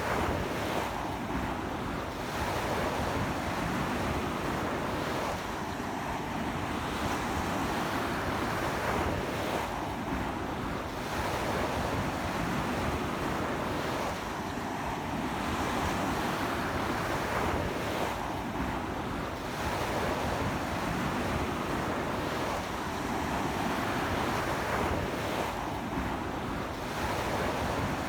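Strong surf breaking and washing up a beach in a steady roar that swells and eases every few seconds, with sea wind buffeting the microphone.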